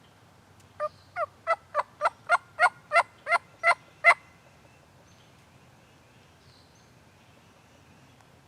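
A run of eleven turkey yelps, about three a second, growing louder towards the last note, then stopping about four seconds in.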